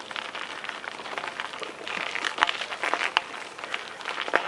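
Bicycle riding over rough ground: a dense, irregular crackle of small clicks and rattles, a little louder from about two seconds in.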